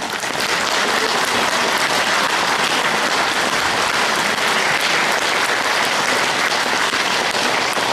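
Concert-hall audience applauding steadily after a song ends, a dense, even clapping that starts right as the backing music stops.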